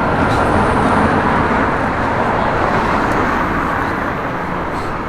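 Road traffic passing on a city street: a steady rush of tyres and engines that is loudest about a second in and slowly fades.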